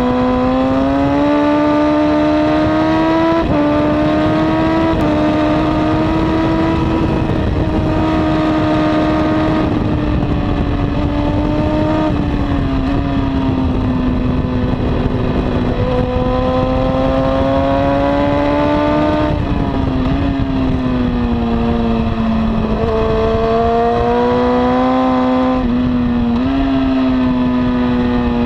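2002 Honda CBR954RR inline-four with a slip-on exhaust running hard under load, its pitch climbing and falling and dropping suddenly several times at gear changes.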